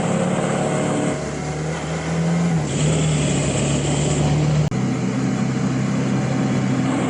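Suzuki V-Strom 650's V-twin engine running at a steady speed while riding, with wind noise over it. The engine note shifts abruptly a few times, once with a brief dropout about two-thirds through.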